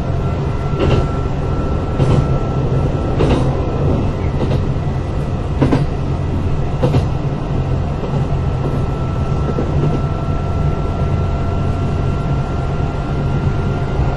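Kintetsu 8000 series electric train running, heard from inside car 8079: a steady rumble with a thin steady whine. The wheels click over rail joints about once every second and a bit through the first half, then the ride runs smoother.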